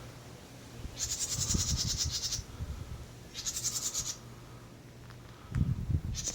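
A wren giving rapid, high, buzzy trills, three bursts of about a second each. Between them come low rustling and steps through the brush.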